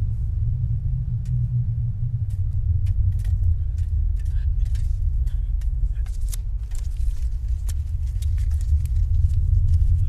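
A steady low rumble with scattered sharp clicks and snaps over it, the clicks coming more often from about two seconds in.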